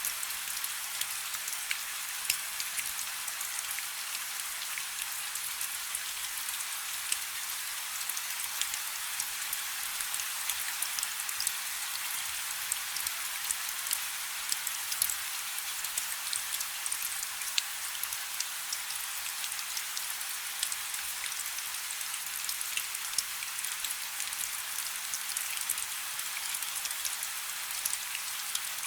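Light rain falling steadily: an even hiss with many separate drop impacts clicking through it.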